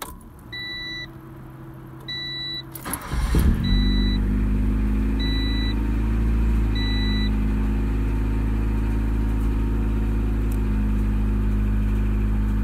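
Honda CRX engine cranking briefly and catching about three seconds in, on its first start with a freshly installed fuel pump, then settling into a steady cold idle. A dashboard chime beeps five times, about every second and a half, through the first seven seconds.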